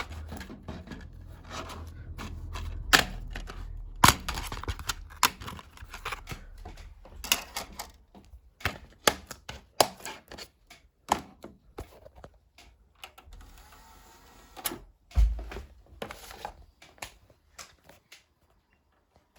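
A rapid, irregular series of sharp clicks and knocks in a small room, thinning out after about eight seconds, with one louder thump near the end.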